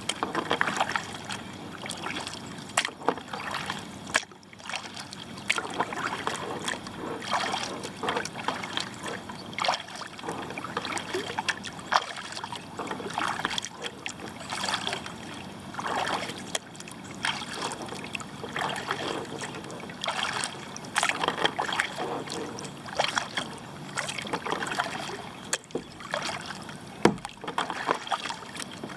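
Kayak paddle strokes dipping and splashing in the water, a swish every second or two, with a couple of sharp knocks.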